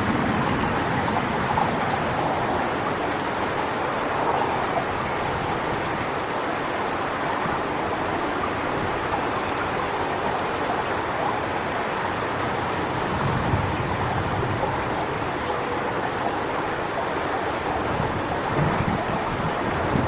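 Strong wind rushing through coconut palm fronds, a steady rustling hiss, with low gusts buffeting the microphone about two-thirds of the way through and again near the end.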